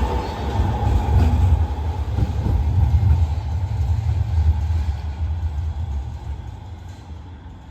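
Manchester Metrolink tram running on its rails with a low rumble that fades steadily as it moves away.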